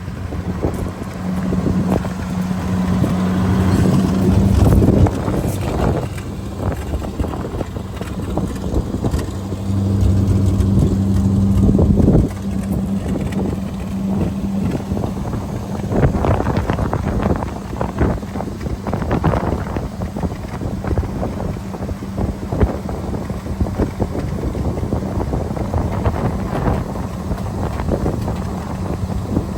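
Ford grain truck's engine running with a steady low hum. It grows louder twice, for a few seconds from about a second in and again from about nine seconds in, and each time drops back suddenly. Wind buffets the microphone.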